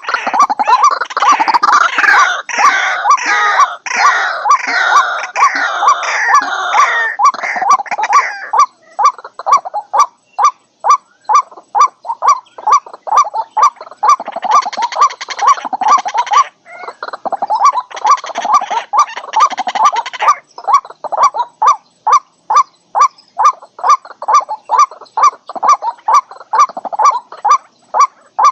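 White-breasted waterhens calling. The first eight seconds or so are a harsh, jumbled chorus of croaks. Then comes a steady run of repeated short 'kwak' notes, about two or three a second, broken twice midway by more bursts of harsh calling.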